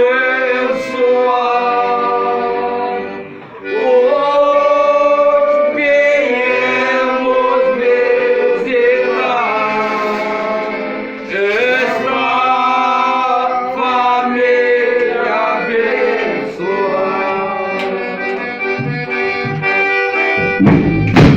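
Accordion (sanfona) playing a folia tune of held chords, with voices singing along. Near the end a drum comes in with a rhythmic beat.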